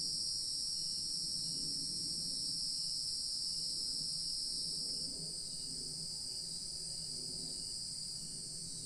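Evening insect chorus, a steady high-pitched shrill trilling that drops slightly in loudness about five seconds in, over a faint low background of rural ambience.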